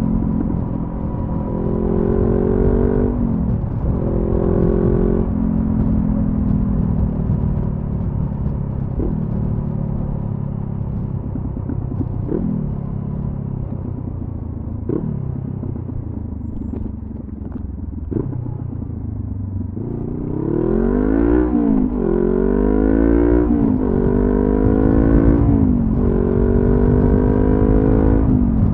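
2014 Honda CB500F's parallel-twin engine through a Delkevic carbon-fibre slip-on exhaust, under way. The revs hold, change gear, then sag slowly as the bike slows, with four short rev blips. In the last third it accelerates up through the gears, the revs climbing and dropping at each shift.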